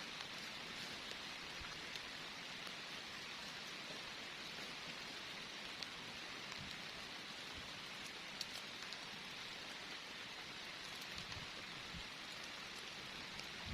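Heavy rain falling steadily: a dense, even hiss with a few faint ticks of single drops.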